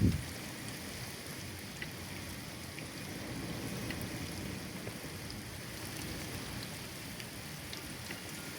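Steady rain falling, with scattered faint drip ticks. A short low thump right at the start is the loudest sound.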